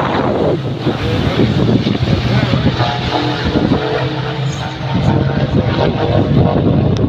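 Race truck engines running on the track, with a steady engine tone that is clearest midway through.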